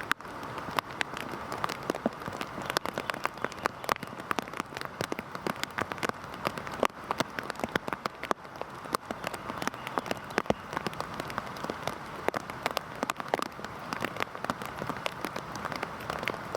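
Heavy rain falling: a steady hiss of rain with many close individual drops landing as sharp ticks throughout.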